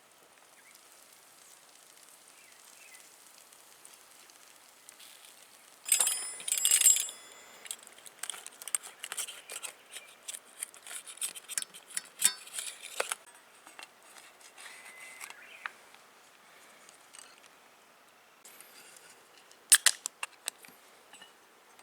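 Camp gear being handled: about six seconds in, a brief metallic jangle with a ringing tone, then several seconds of small clicks and rustles, and another short metallic clink near the end.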